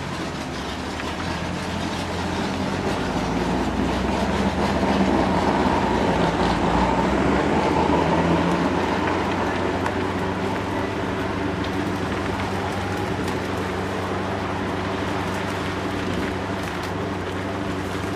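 Corvette C6 V8 engine running hard at track speed, mixed with tyre and wind noise. It grows louder for a few seconds in the middle, then eases back to a steady drone.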